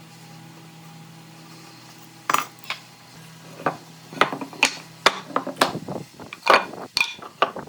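Irregular sharp knocks and clinks of tools being handled and set down, starting a couple of seconds in and coming quickly near the end, over a steady low hum.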